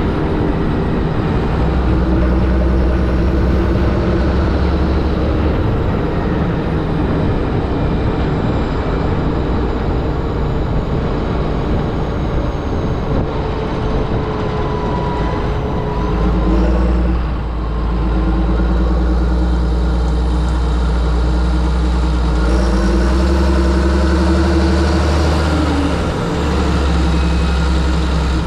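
John Deere 7730 tractor's six-cylinder diesel engine running steadily, its note shifting slightly about halfway through and again near the end as load or engine speed changes.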